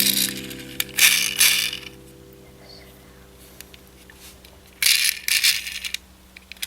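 Two short spells of rattling and clattering, about a second in and again about five seconds in, over a faint steady hum, as a tone fades out at the start.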